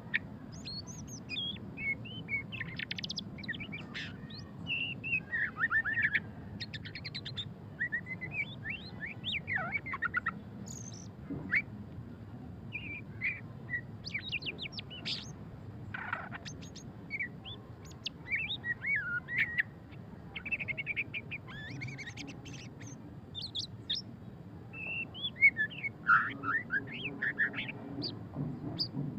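White-rumped shama singing a long, varied song of fast chattering trills, rapid rattles and short whistled notes, with a faint low hum underneath.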